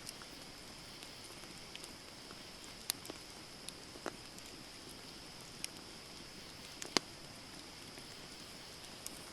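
Wood campfire burning with a steady hiss and scattered sharp crackles and pops, the loudest pop about seven seconds in.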